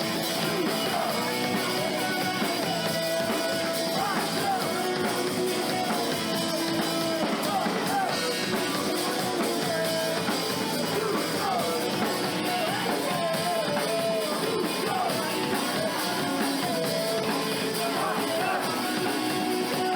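A live rock band playing a song, with guitar and drums.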